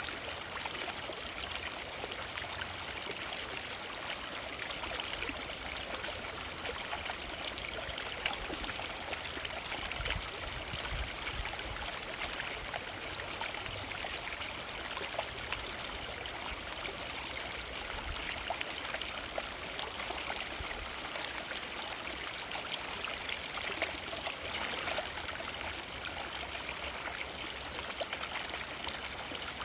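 A forest river flowing, a steady rush of water with many small splashes and trickles over it.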